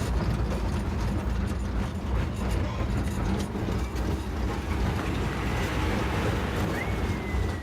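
A steady, loud low rumble with a rushing hiss over it, unbroken throughout. A faint thin whistle comes in near the end.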